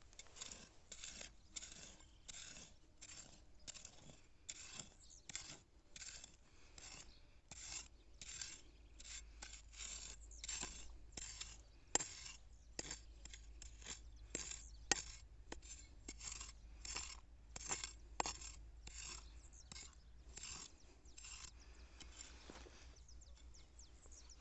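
A hand digging tool scraping and chopping into soil in repeated strokes, about two a second, with a few sharper clicks from hitting stones or grit, as a metal-detector target is dug out.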